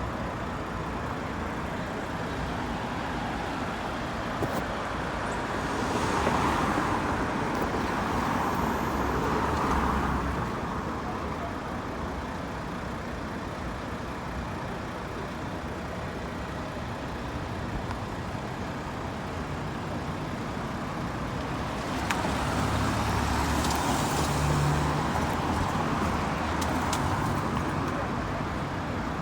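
Road traffic going past at the kerbside: a steady hiss of tyres and engine rumble, with two vehicles passing close, one about six seconds in and another about twenty-two seconds in.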